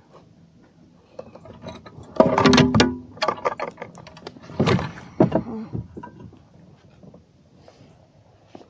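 Hollow knocks and thuds against a plastic kayak, some with a short ringing tone, loudest in a cluster about two to three seconds in and again near five seconds, then dying away.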